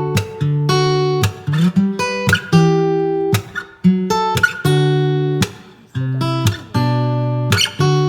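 Music: acoustic guitar strumming chords, a new strum about every half second.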